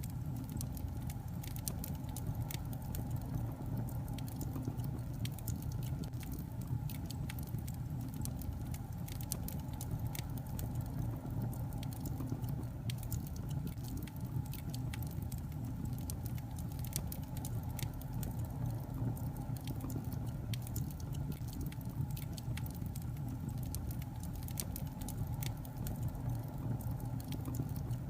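Wood fire burning in a fireplace: logs crackling with many small irregular pops over a steady low rumble of the flames.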